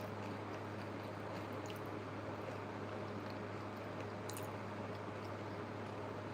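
Close-up chewing of food, with a few faint clicks, over a steady low hum.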